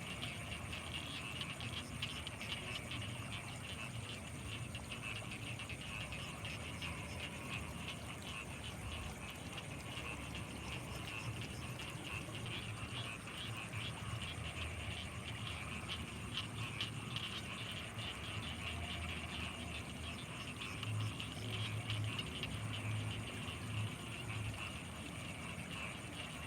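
Night chorus of frogs and insects over rice fields: a dense, rapid trilling and chirring, a steady thin high insect whine above it, and low pulsing croaks that grow stronger about three-quarters of the way through.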